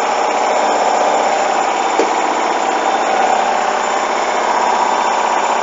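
Hoover washing machine spinning, a steady loud drum and motor noise during its spin cycle with a heavily unbalanced bedding load.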